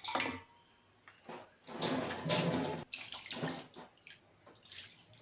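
Water poured from a hand-held jug over a soapy hand and splashing down into a pot below, in several uneven pours, the longest about two seconds in, to rinse the hand.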